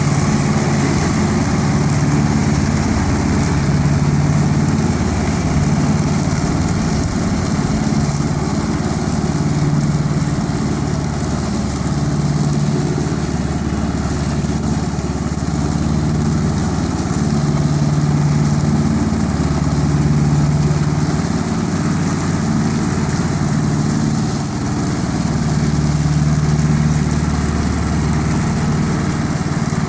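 Tractor engine running steadily, its low hum swelling and easing every couple of seconds.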